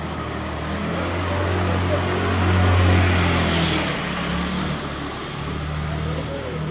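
A motor vehicle passing close by on a wet street: engine hum and tyre hiss swell to a peak about three seconds in, then fade.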